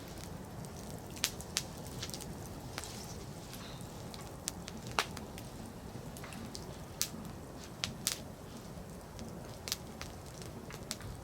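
Firewood burning in a fire pit: a steady low rustle of flame with irregular sharp crackles and pops, the loudest about halfway through.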